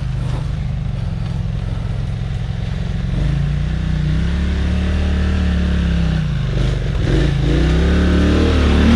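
ATV engine running steadily, then from about three seconds in revving up and down several times as the throttle is worked on a steep climb that does not quite make it.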